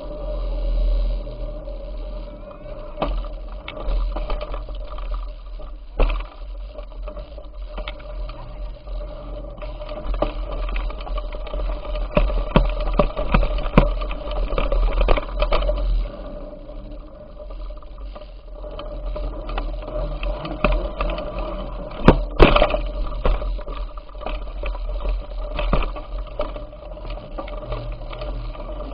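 Bicycle ride picked up by a camera on the move: irregular rattles, clicks and knocks, sharpest twice, over a steady low rumble and rolling noise with a faint steady hum.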